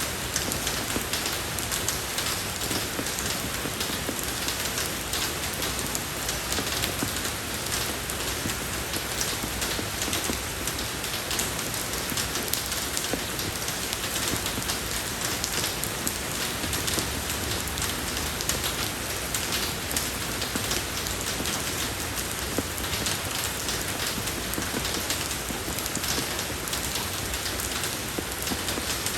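Steady rain falling on a road, an even hiss dotted with many separate drop ticks.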